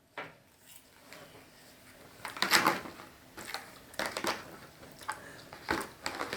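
Close-miked chewing and mouth sounds of someone eating crumb cake: irregular soft clicks and short noisy bursts.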